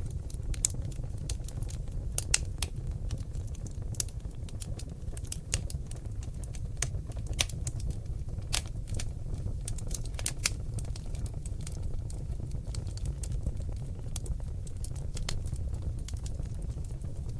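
Seasoned oak logs burning in a fireplace: irregular sharp crackles and pops over a steady low rumble of the flames. The pops are thickest in the first ten seconds or so and sparser after.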